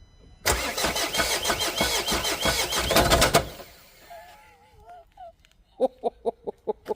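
2016 Renault Trafic's 1.6 dCi diesel engine cranking and catching for about three seconds with a heavy, rapid knocking, then cut off: the knock that the owner takes for massive engine failure. Near the end a chicken clucks in a quick run.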